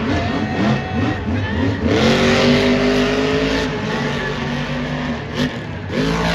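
Monster truck's supercharged, alcohol-fuelled engine revving hard under throttle. Its pitch climbs about two seconds in and holds before dropping away, with another sharp rev near the end.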